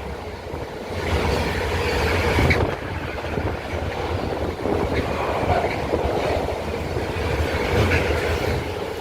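A train running on the rails: steady wheel and rail noise with a low rumble.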